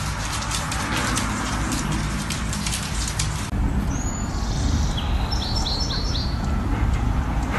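A dense patter of sharp clicks over a low rumble. Then, after a cut, outdoor ambience with a low rumble and birds chirping: one short rising chirp, then a quick run of four chirps.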